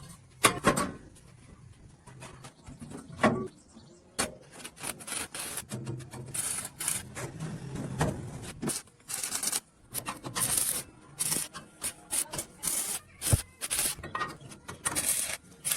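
Repeated rough scraping or rubbing strokes at an irregular two or three a second, with a few sharper knocks among them.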